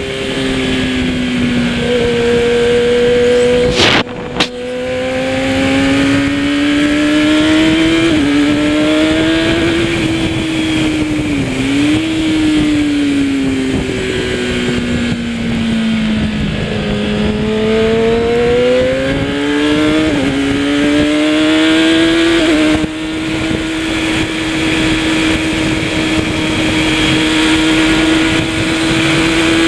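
Kawasaki ZX-10R superbike's inline-four engine heard from onboard, under heavy wind rush, its revs rising and falling through the corners with quick pitch jumps at the gear changes. A single sharp crack comes about four seconds in.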